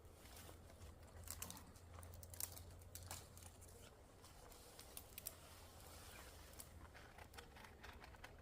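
Faint, irregular crackling and clicking from a small campfire of paper and kindling as it is fed, with a steady low hum underneath.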